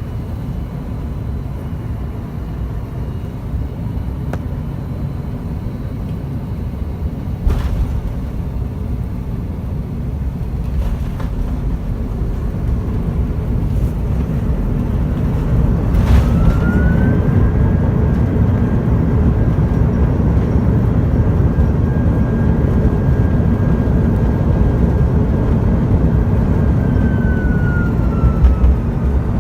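Cabin noise aboard an Airbus A330-200 on approach: a steady low rumble of airflow and its GE engines that grows louder about halfway through. There is a clunk about seven seconds in and another around sixteen seconds. With the second clunk a mechanical whine rises, holds steady for about ten seconds, then falls away near the end.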